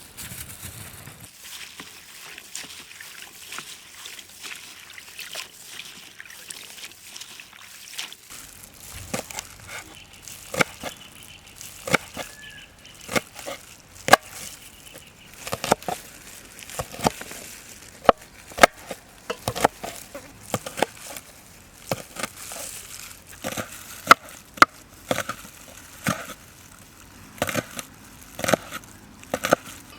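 Knife chopping on a cutting board: irregular sharp taps, about one or two a second, starting about eight seconds in.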